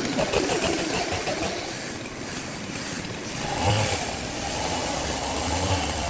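Sawmill machinery running with a steady engine-like drone. A low, even hum joins in about three and a half seconds in.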